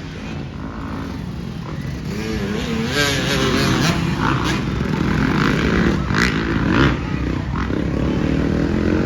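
Motocross dirt bikes racing on the track, engines revving up and down as riders work the throttle. The engine sound grows louder over the first few seconds.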